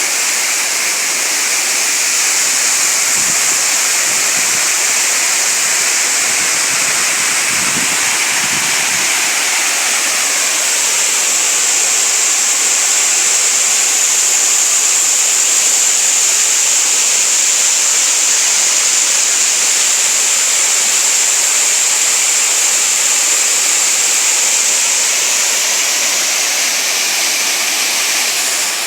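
Waterfall: water falling and rushing in a steady, unbroken hiss, close and loud.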